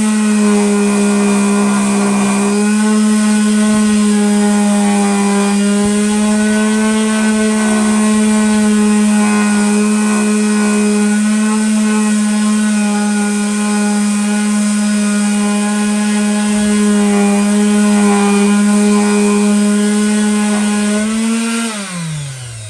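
Electric power sander running steadily at full speed while sanding a wood round, a constant motor whine with a low pitch. Near the end it is switched off, and the whine falls in pitch as the motor spins down.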